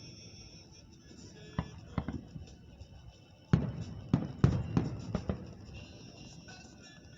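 Aerial fireworks shells bursting: two bangs, then a quick run of about six louder bangs near the middle.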